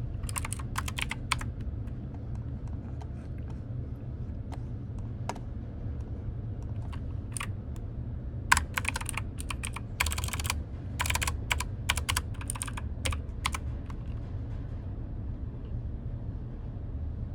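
Typing on a computer keyboard in irregular bursts of keystrokes, with scattered single keys between bursts and almost none in the last few seconds. A steady low hum runs underneath.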